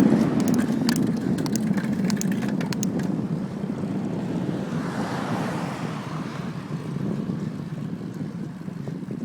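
Wind rushing over the microphone with road noise from a bicycle rolling along, loud at first and fading steadily as the bike slows onto a climb, with a few faint clicks in the first few seconds.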